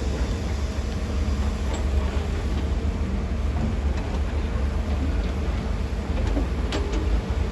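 Heavy diesel earthmoving machinery running with a steady low rumble, and one sharp knock near the end.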